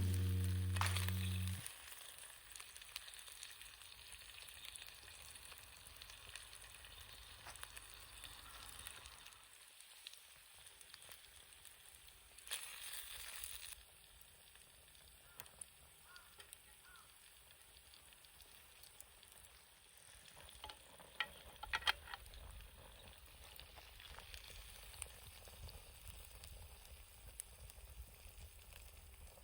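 Food sizzling faintly in a pan over a wood fire, a steady frying hiss with a few sharp crackles about twenty seconds in.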